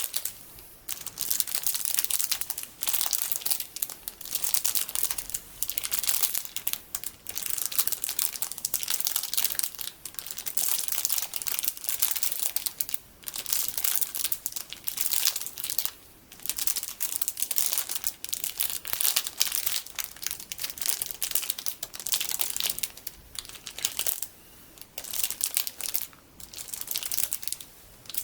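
Plastic packaging full of colorful sticky beads being handled, giving dense crinkling and crackling in bursts with short pauses between them.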